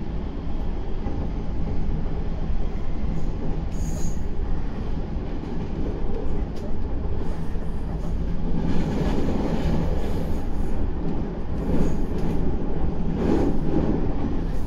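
Meitetsu 9500 series electric train running along the track, heard from inside the front car: a steady rumble of wheels on rails with occasional knocks, growing louder in the second half.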